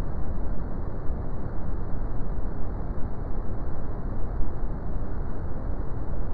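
Brown noise: a steady, deep rumbling hiss, strongest in the bass and falling away toward the highs, with no tones or events.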